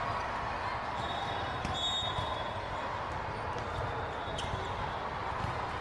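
Indoor sports-hall din during a volleyball match: a steady hubbub of voices with volleyballs thudding on hands and floor, a couple of sharp knocks and short high squeaks.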